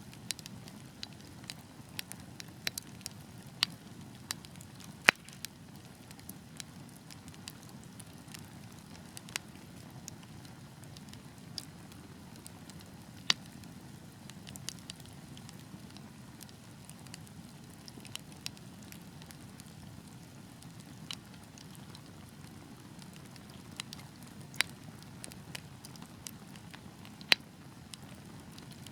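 Wood fire burning: a steady low rush of flames with irregular sharp crackles and pops, a few much louder snaps scattered through.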